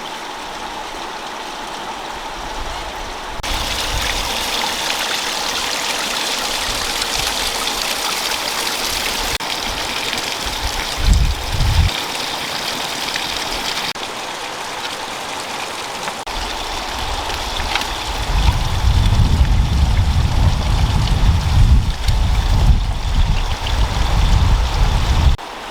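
Steady hiss of running water, changing abruptly several times, with a low rumble added in the last third.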